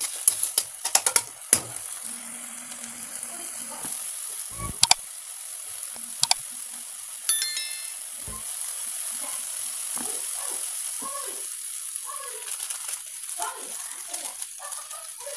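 Chopped onion and tomato sizzling steadily in a hot non-stick frying pan, with a spoon clicking and scraping against the pan as the mixture is stirred, most busily in the first couple of seconds and again near the end.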